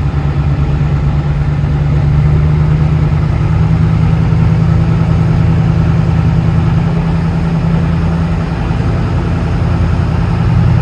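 A 2008 Chevrolet pulling truck's engine running steadily at a raised idle before takeoff, with a steady low hum. It gets a little louder about two seconds in and dips briefly near the end.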